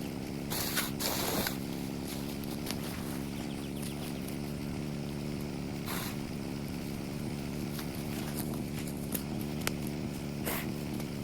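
A small petrol engine of yard equipment runs steadily, with a few short swishing sounds about a second in, midway and near the end.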